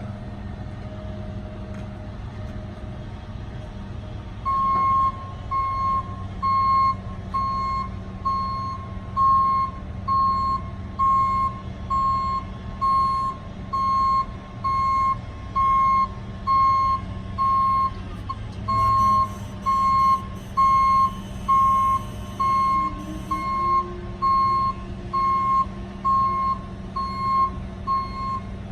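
Medium-duty GMC C7500 truck engine running steadily while the dump bed is worked. About four seconds in, a warning beeper starts sounding evenly, roughly once a second, and keeps going.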